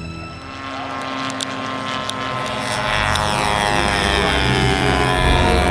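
Propeller-driven radio-controlled model airplane engine flying past, its pitch dropping as it goes by.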